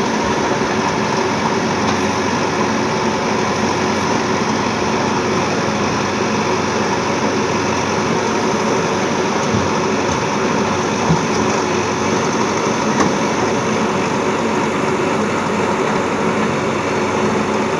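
Diesel engine of a working machine, a backhoe loader or tractor, running steadily, with a couple of brief knocks about two thirds of the way through.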